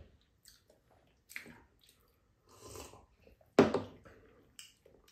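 Close-up eating sounds of two people biting and chewing soft steamed sweet potato: scattered soft, wet mouth noises, with one much louder sudden sound about three and a half seconds in.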